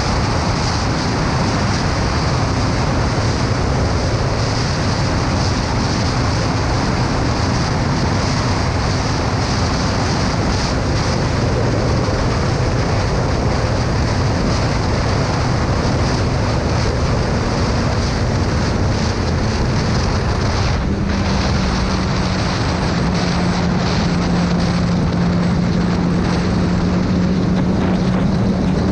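Motorcycle riding at highway speed, with heavy wind noise on the microphone over a steady engine hum. About two-thirds of the way through, the engine note dips briefly, then settles at a lower, stronger hum.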